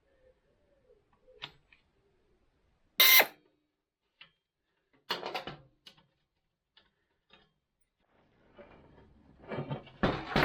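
Metal tools and parts being handled: a loud sharp clank about three seconds in, a short rattle about five seconds in, a few light ticks, and a longer run of clattering near the end.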